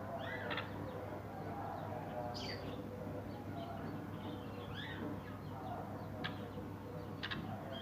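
Caged birds calling: short scattered calls every second or so, over a steady low hum.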